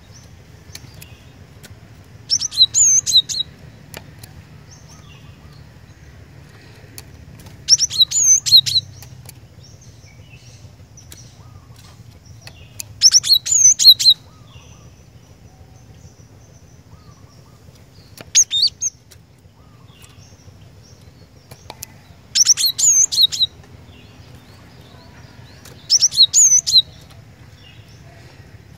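Cinereous tit (glatik batu) singing: six short phrases of rapid, high repeated notes, each about a second long, coming every four to five seconds over a faint low hum.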